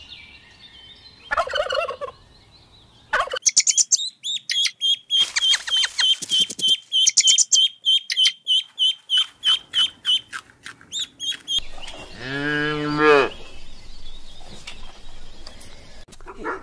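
A turkey gobbles briefly near the start. Then comes a long run of rapid, high, regular chirps for several seconds, and about 12 s in a cow moos once, a low, loud call lasting under two seconds.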